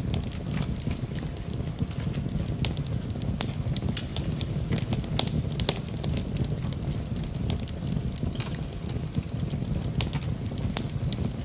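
Wood fire crackling in a fireplace: a steady low rumble of flames with frequent sharp pops and snaps of burning logs.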